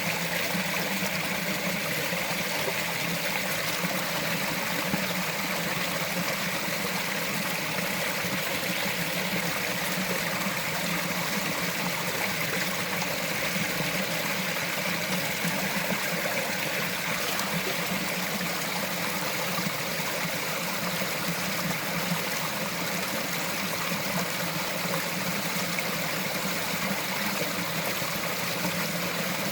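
Small forest stream trickling and burbling over rocks, a steady, even water sound that does not change.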